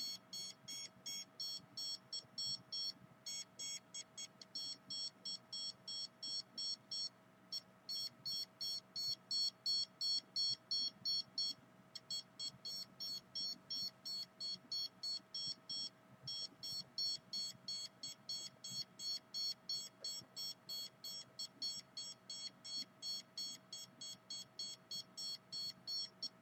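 Handheld radio-frequency meter's alarm beeping rapidly, about three short high-pitched beeps a second with a few brief pauses, signalling a high reading. A faint steady hum lies under it.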